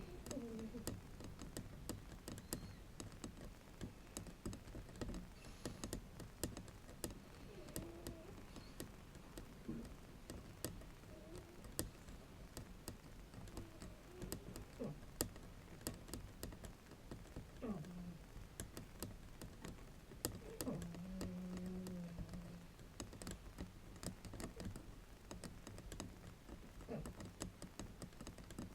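Tapping and scratching on a bamboo mat: a dense, irregular run of light, dry clicks and scrapes, like typing.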